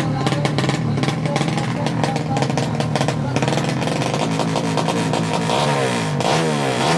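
A 200cc horizontal-cylinder drag-bike engine running steadily, then from a little past halfway revved up and down several times in quick throttle blips.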